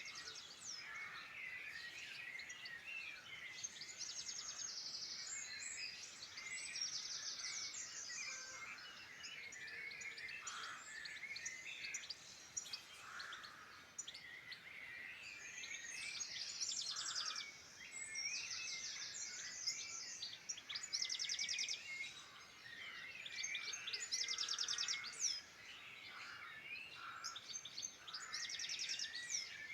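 Several wild songbirds singing at once, a chorus of overlapping chirps, whistled glides and quick high trills repeated every few seconds.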